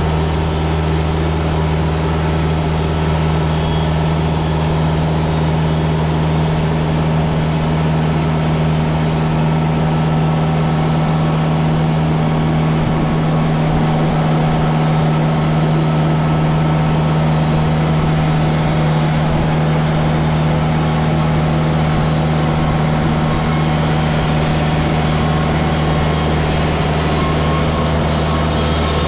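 TimberKing band sawmill running steadily under load as it slabs a white cedar log: an even engine drone with the blade cutting through the wood.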